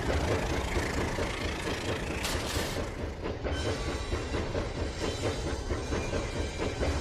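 Rail King remote-control toy train running on its track, its motor and wheels clattering steadily, with a short hiss a little over two seconds in.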